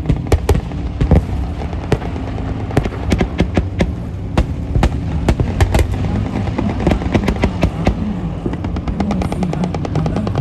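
Volleys of gunfire from many weapons firing at once: sharp shots in quick, irregular succession, overlapping throughout, over a steady low drone.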